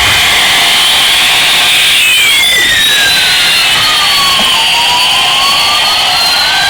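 Battery-operated toy airliner playing its electronic jet-engine sound effect: a loud, steady high whine with a pitch that falls slowly over about two and a half seconds and then rises again.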